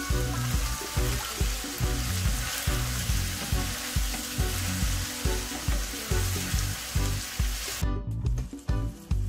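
Ackee and saltfish sizzling in coconut oil in a pan while being stirred; the sizzle cuts off suddenly near the end. Background music with a steady beat runs underneath.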